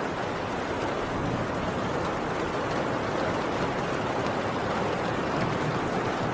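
Heavy rain drumming steadily on a tin roof, an even unbroken downpour.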